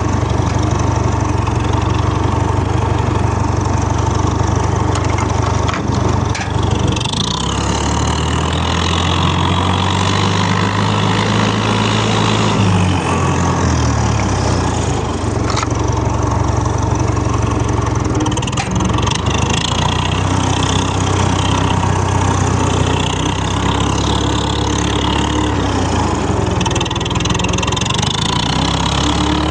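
Tractor engine running steadily, speeding up about a quarter of the way in, holding the higher speed for several seconds, then dropping back to its earlier speed.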